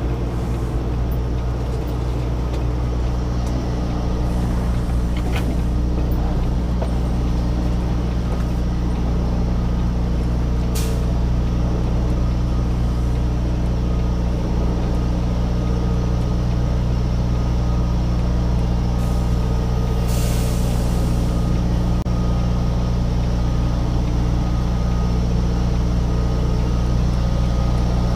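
Semi-truck diesel engine running steadily at low speed while the rig maneuvers, with a short hiss of air from the truck's air system about twenty seconds in.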